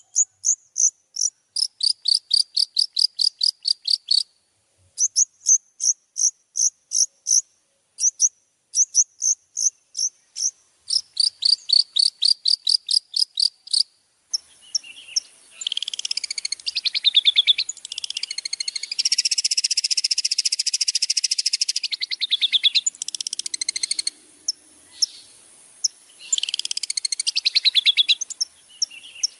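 Long-tailed shrike (cendet) singing. The first half is a run of high, sharp, evenly repeated notes at about three a second. About halfway it turns abruptly into a dense, fast chattering song with short breaks.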